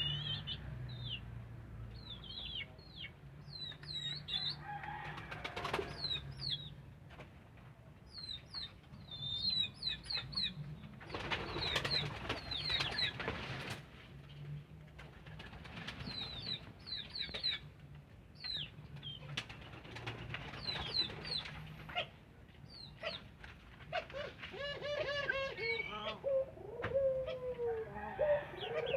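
Birds calling: many short, high chirps repeat throughout, with a few stretches of rustling noise. Near the end a lower, repeated call comes in.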